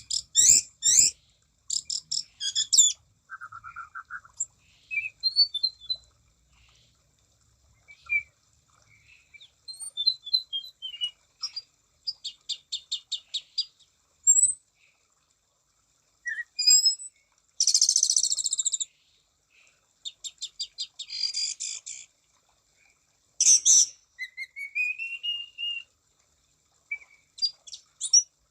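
Anis cendana (orange-banded thrush) singing a loud, varied song: fast trains of repeated notes, short whistles, a rising whistled slur and a few harsh bursts, in phrases broken by short pauses.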